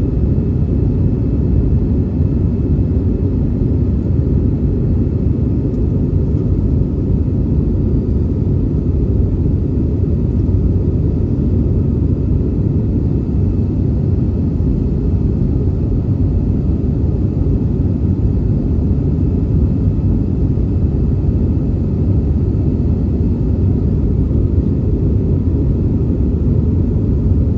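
Steady low drone inside the cabin of an Airbus A319 in flight: engine and airflow noise heard from a window seat, with a faint high whine above it.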